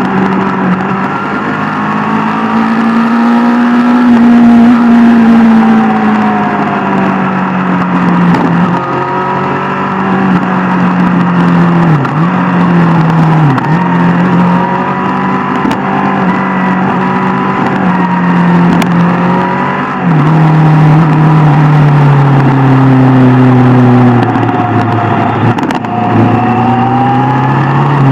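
Sport motorcycle engine running at speed on the road, its pitch slowly rising and falling with the throttle, with a couple of brief sharp dips in pitch near the middle.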